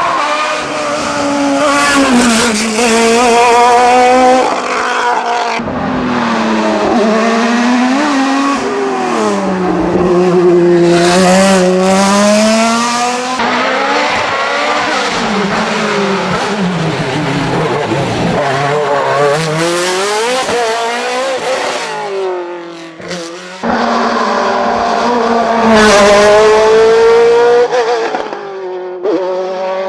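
Race cars at full throttle, engines revving up and dropping back over and over as they shift and brake for corners, with tyre squeal. The sound changes abruptly three times as one car gives way to the next.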